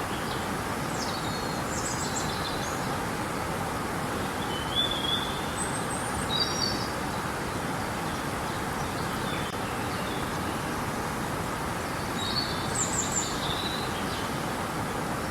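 River water rushing steadily, with small birds chirping in short bursts of song several times over it.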